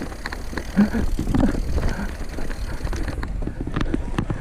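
Mountain bike rolling over a rough trail: a steady low rumble of tyres on the ground with frequent clicks and rattles from the bike over bumps, and wind on the microphone.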